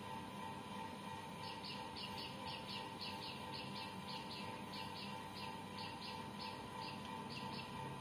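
A small bird chirping in a quick series of short high chirps, about four or five a second, starting a second and a half in and stopping shortly before the end.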